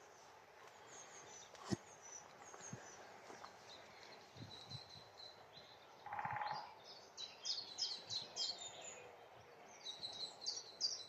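Woodland birdsong: small songbirds singing high, quick repeated notes, busiest in the second half, with a short, lower call about six seconds in.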